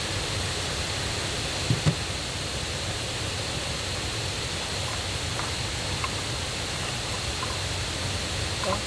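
Steady rushing of a mountain stream and waterfall swollen by the previous day's rain, loud and unbroken. Two short knocks sound close together a little under two seconds in.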